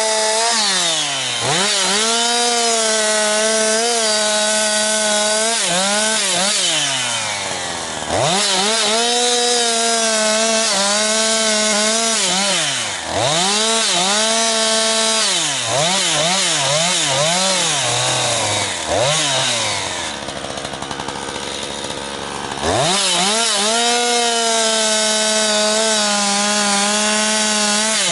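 Jonsered 2156 two-stroke chainsaw cutting firewood at full throttle. Its pitch drops each time the throttle is let off and climbs straight back up. About two-thirds through it settles to idle for a couple of seconds, then revs up again, running cleanly on its rebuilt Walbro HDA199 carburettor.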